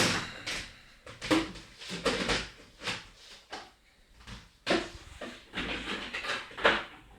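A dishwasher being shut and handled: a sharp knock right at the start, then a run of irregular knocks and clatters, the last loud one near the end.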